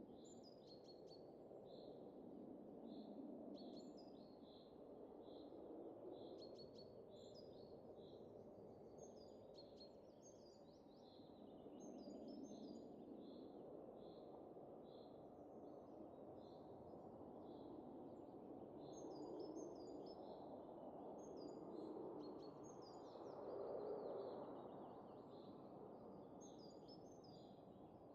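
Soft winter wind rushing in slow gusts, swelling loudest about three-quarters of the way through, with small birds chirping in short, high, repeated notes throughout.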